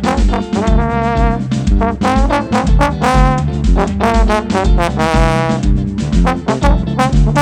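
Band music with a trombone playing the melody over bass and drums, with a steady beat.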